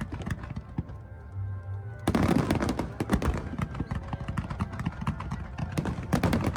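Fireworks going off in rapid, dense bangs and crackling, with music playing under them; the bursts pause for about a second near the start, then resume thickly.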